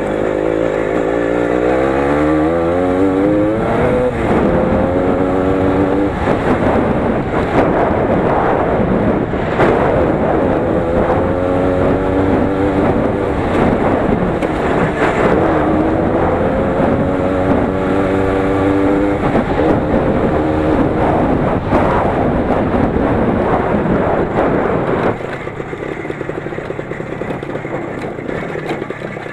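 Lider 3.221 20 hp motorcycle engine under load on a rough forest track, its pitch climbing and holding several times with drops between as the rider shifts and works the throttle, over a rattle from the bumpy ride. The engine eases off near the end.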